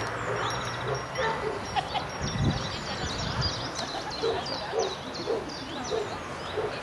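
Small birds chirping and twittering throughout, with a run of short, evenly spaced low calls, about two a second, in the second half.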